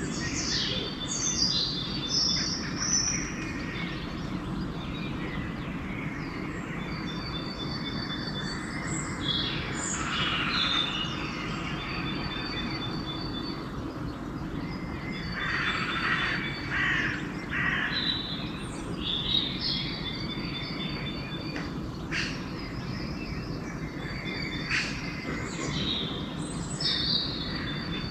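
Dawn chorus: several songbirds chirping and singing in overlapping calls, some as quick runs of repeated high notes, over a steady low rumble of distant background noise.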